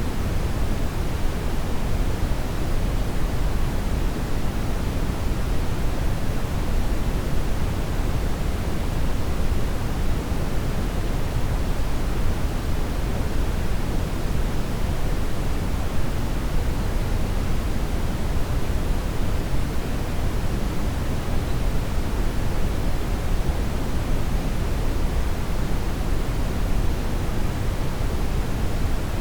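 Brown noise: a steady, even rushing hiss, heaviest in the deep low end and fading toward the top, with no change over time.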